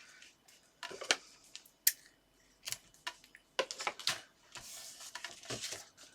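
Double-sided tape being put on a card insert by hand: a string of sharp clicks, taps and crinkles of tape and paper, with a longer rustle about four and a half seconds in.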